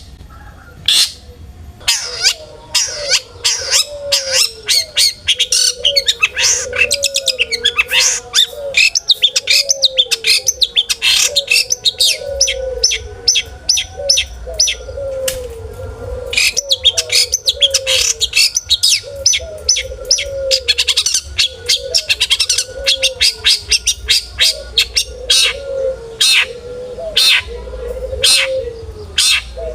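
Long-tailed shrike (cendet) in full song: a fast, varied string of sharp chirps, trills and mimicked calls of other birds, over a lower, repeated falling note.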